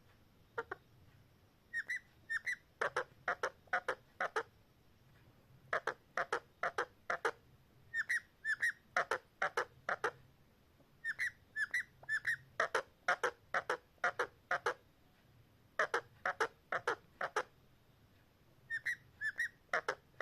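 Parrot repeating one vocal phrase over and over: two high rising-and-falling whistles, then a quick run of about four to six short sharp notes, about five times in a row with short pauses between.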